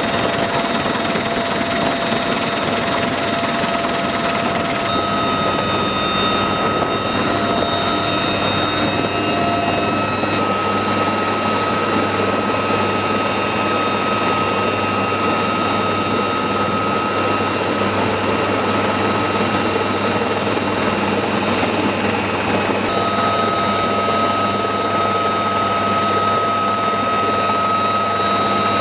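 UH-1Y Venom helicopter running, with a steady turbine whine over a loud, even rush of engine and rotor noise. The pitch of the whine shifts a little a few times, about 5, 10 and 23 seconds in.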